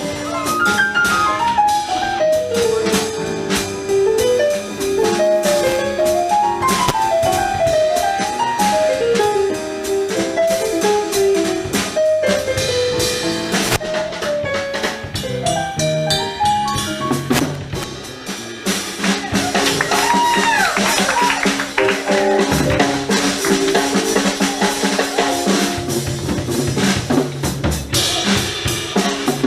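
Small jazz combo playing live. For the first two-thirds a single melodic line solos over bass and drum kit; after that the drum kit comes to the fore.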